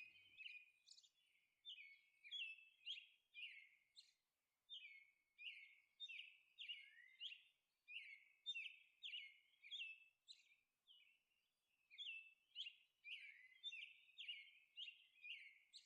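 Faint bird chirping: short downward-sliding chirps repeating about twice a second.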